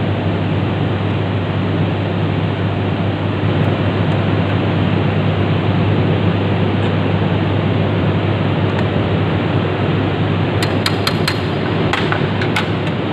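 Steady machine noise with a low hum. A quick run of sharp metallic clicks comes near the end.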